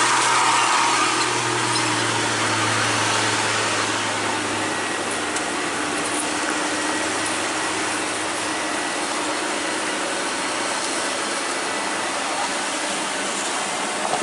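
A vehicle engine running under a steady rushing noise; its low hum fades away after about five seconds, as if the vehicle is moving off.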